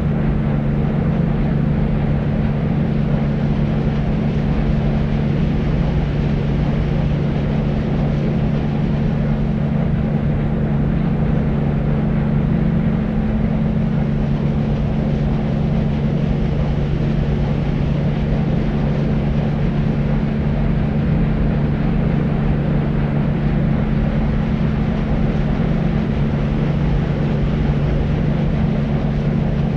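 Deep noise for sleep: a steady, unchanging rushing rumble, heavy in the low end with a low humming band, and only a soft hiss on top.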